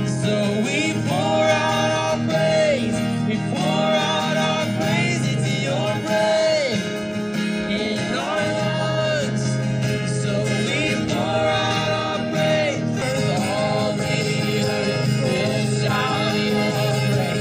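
Contemporary worship music: voices singing a slow melody over guitar and steady low accompaniment.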